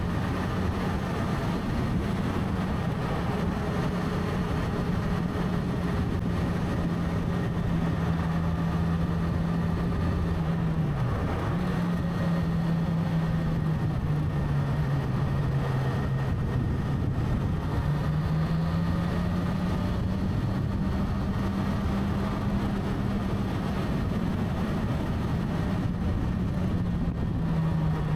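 Motorcycle engine running while riding along a road, its pitch dropping about eleven seconds in, dipping lower a few seconds later, then rising again. A steady rush of wind noise runs beneath it.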